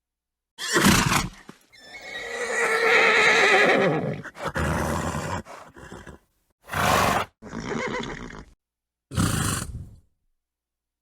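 Horse sounds: a short snort, then a long wavering whinny that falls away at the end, followed by a few short snorts and blows. Each sound is separated by a gap of dead silence.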